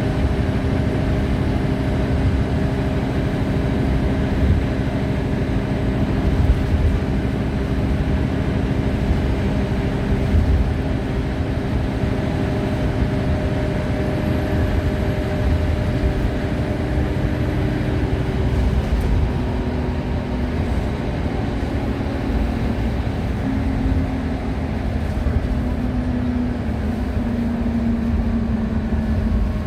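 Scania-engined Wright Solar Rural bus heard from on board while driving: a steady diesel engine note over a constant low road rumble. About two-thirds of the way through, the engine note drops and then shifts in steps.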